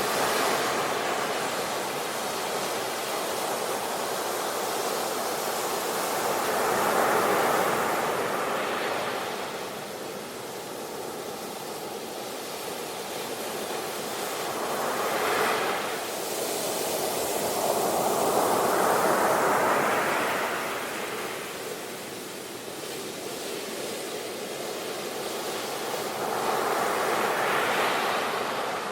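Sea waves breaking and washing up the shore, a steady rush that swells with each incoming wave every several seconds and then eases back.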